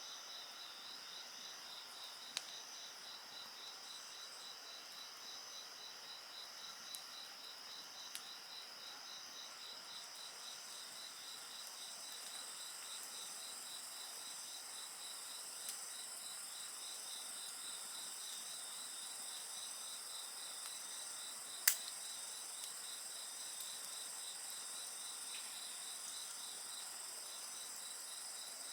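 A steady chorus of insects calling, one of them a fast pulsing trill, over a wood bonfire that crackles now and then with sharp pops, the loudest about three quarters of the way through.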